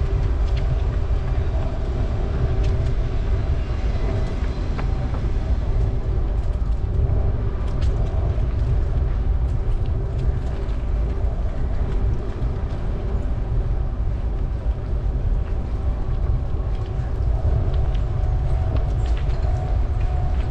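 Steady low rumble of wind buffeting the microphone of a camera riding along on a moving bicycle, with faint outdoor ambience and a few light clicks.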